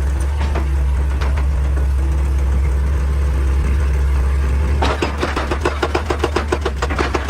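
Excavator's heavy diesel engine running steadily. About five seconds in, a fast run of sharp clattering knocks starts, several a second, and goes on to the end.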